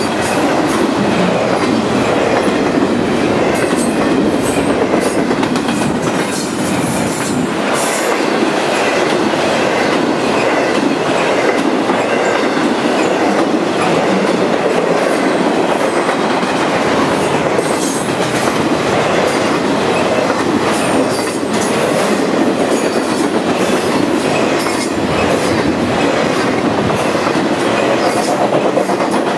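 Long intermodal freight train of truck trailers rolling past close by: a steady, loud rumble and rush of steel wheels on rail, with brief high squeaks from the wheels now and then.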